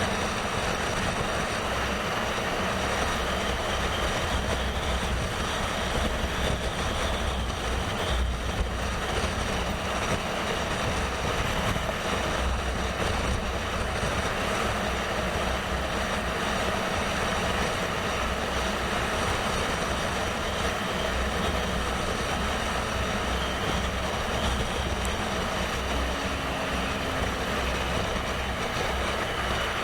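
Steady riding noise from a moving motorcycle: wind rushing over the microphone, with a low, uneven rumble of engine and road noise underneath.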